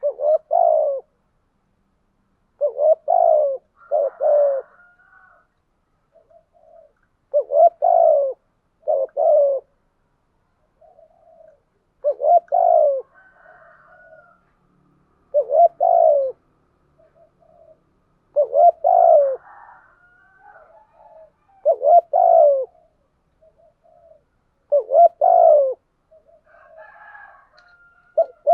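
Spotted dove cooing: short phrases of two or three notes, repeated about every three seconds, with fainter bird calls in between.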